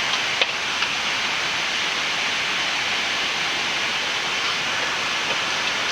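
Steady rush of air and flight-deck noise inside a Boeing 787-9 cockpit during descent, even and unchanging, with a single light click about half a second in.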